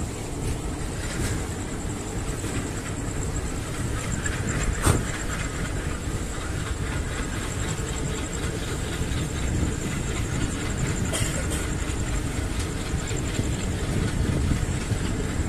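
Passenger train running along the track, heard from the coach: a steady rumble of wheels and carriage with faint clicking from the rails, and one sharper knock about five seconds in.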